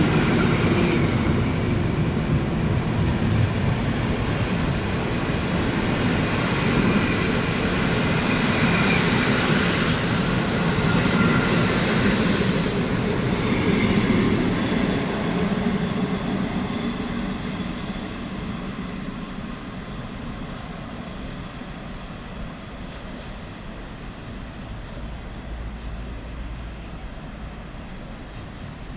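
Train passing through a station: loud rail rumble and wheel noise that peaks in the first half, then fades steadily away as the train recedes.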